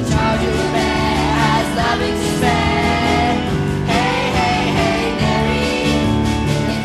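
A song sung over instrumental accompaniment, with the singer's melody wavering above a steady backing.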